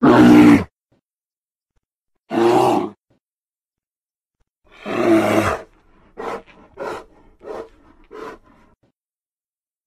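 Bear growling: three growls about two seconds apart, the third one longer, then a quick run of short grunts.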